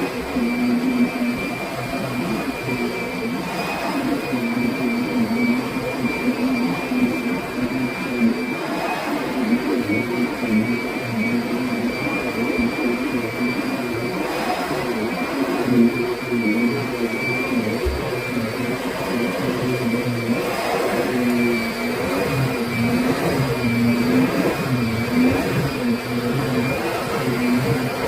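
Kirby Sentria upright vacuum cleaner running steadily, with a high fan whine and a lower motor hum that wavers slightly in pitch.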